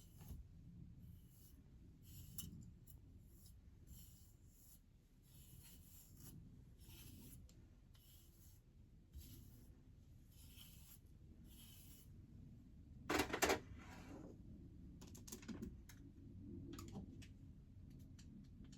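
Faint rustling and handling noises coming about every second or so, with a sharper, louder clatter about thirteen seconds in.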